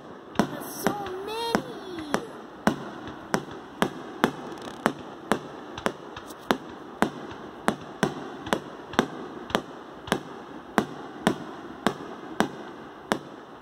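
Aerial fireworks going off in a steady string of sharp pops, about two a second.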